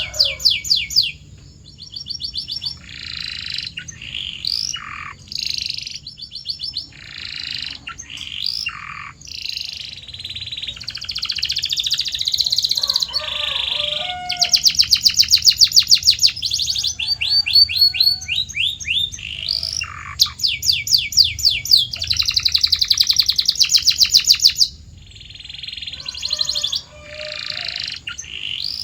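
Domestic canary singing a long song made of rapid repeated-note trills and rolls, one phrase after another, with short pauses between phrases. The loudest trills come about halfway through and again near the end.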